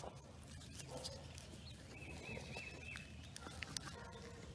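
Faint bird calls: a quick run of four arched, whistled notes about two seconds in, over low background noise with a few light clicks.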